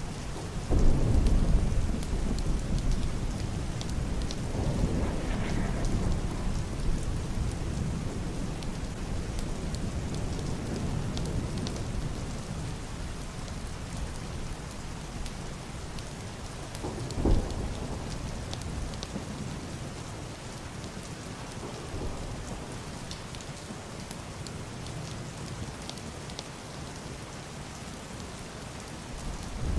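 Steady heavy rain on a wooden roof and window glass, with muffled thunder. A loud low rumble comes about a second in and fades over several seconds, and a shorter, sharper clap comes about halfway through.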